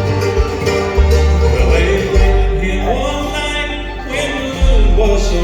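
Bluegrass band playing an instrumental break, with banjo among the instruments over steady bass notes, and a lead line that slides and bends in pitch.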